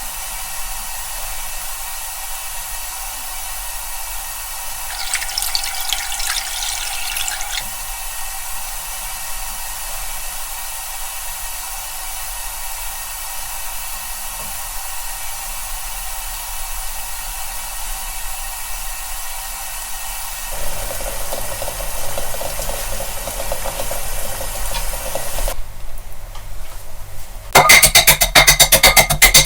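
Water boiling in a pot of eggs, a steady bubbling hiss with a stretch of crackling about five seconds in. Near the end comes a much louder rapid rattling.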